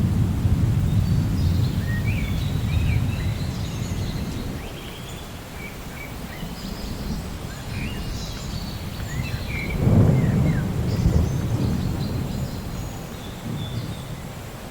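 Thunder rumbling low and dying away over the first few seconds, then rolling again about ten seconds in, with birds chirping throughout over a soft hiss of rain.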